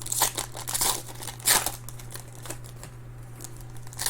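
Foil trading-card pack wrappers crinkling and tearing in a few short crackly bursts as packs are opened by hand, over a steady low hum.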